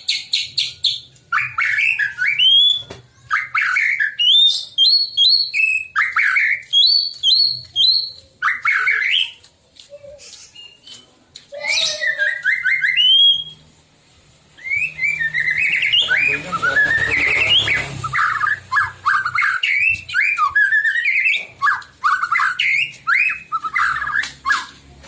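White-rumped shama (murai batu) singing: fast, varied phrases of rising and falling whistles and chattering notes, broken by two short pauses, once about a third of the way in and again just past the middle.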